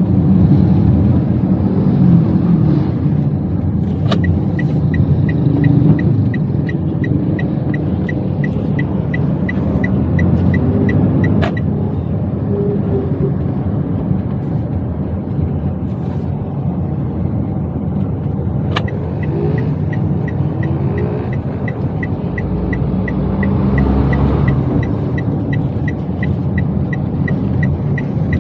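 Engine and road noise inside a Toyota Wigo's cabin while driving. Over it, the turn-signal indicator ticks evenly at about three ticks a second, from about four seconds in to the middle and again from about two-thirds through.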